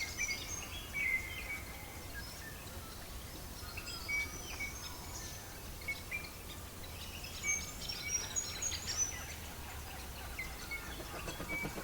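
Small birds chirping and calling in short high notes, busiest at the start and again about seven to nine seconds in, over a steady low rumble.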